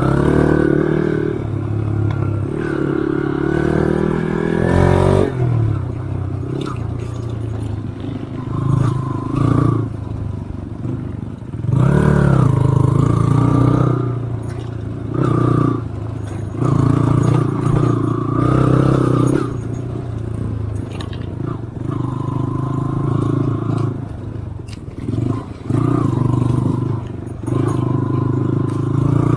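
Motorcycle engine ridden off-road, the revs rising and falling every few seconds as the throttle is opened and closed, with scraping and rattling from the bike over rough ground.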